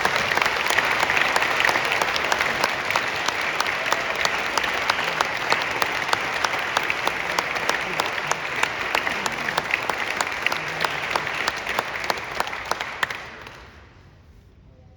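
Audience applauding, dense clapping that fades away about a second or two before the end.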